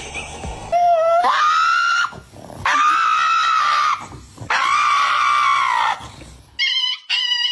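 An animal giving three long, high-pitched cries, each lasting over a second, with the pitch climbing at the start and dropping at the end. Near the end come a run of shorter, higher cries.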